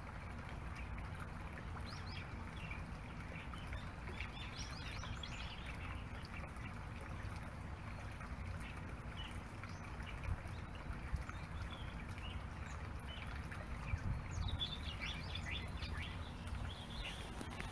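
Small birds chirping in quick clusters, a couple of seconds in and again near the end, over a steady low rumble of background noise.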